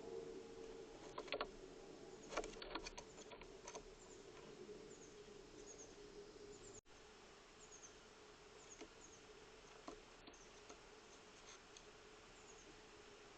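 Faint outdoor ambience at a bird feeder camera: a low steady hum with scattered light clicks and taps, most of them in the first few seconds, and faint short high chirps throughout.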